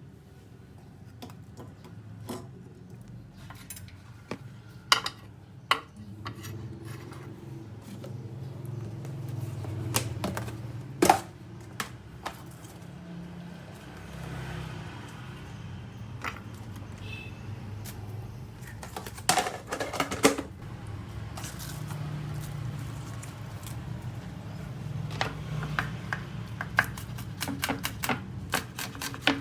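Kitchen preparation sounds: scattered knocks and clatter of utensils and dishes, then a quick run of even taps, a few a second, like a knife chopping on a cutting board, near the end.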